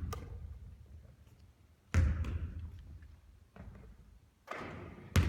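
Basketball bouncing on a court floor: a few separate thuds, the loudest about two seconds in and another sharp one near the end, each trailing off with an echo.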